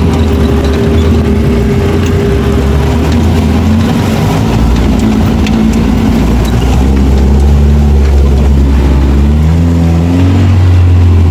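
Off-road 4x4's engine running under load, its pitch climbing as it revs up from about nine seconds in.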